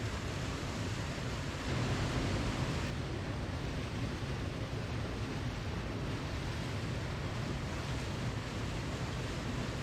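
Waterfall: a steady, even rush of falling water, swelling slightly for about a second near the start.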